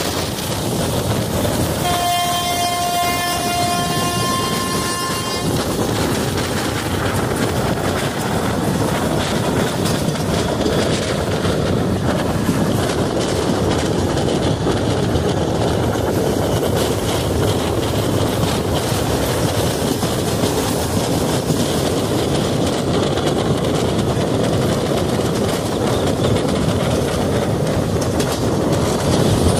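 Indian Railways passenger train running at speed, heard from an open coach doorway: a steady rumble of wheels on rail with rushing air. From about two seconds in, a train horn sounds for about four seconds.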